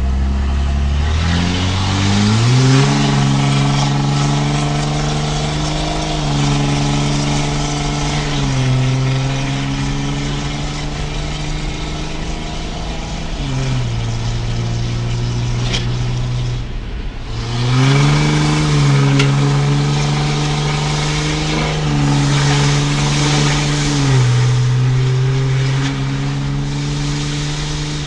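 5.9 L Cummins turbo-diesel of a 2005 Dodge Ram 2500 running loud through a 5-inch turbo-back straight pipe with no cats or muffler. Its pitch climbs over the first few seconds, holds, then drops and climbs again several times as the revs change.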